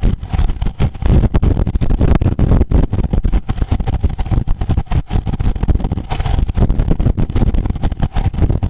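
Wind buffeting a camera microphone on a moving road bicycle at race speed: loud, fluttering low rumble with road and tyre noise underneath.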